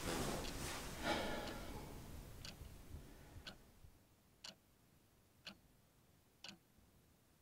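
A clock ticking faintly, once a second. For the first two seconds a rustling noise of movement lies over it and fades away.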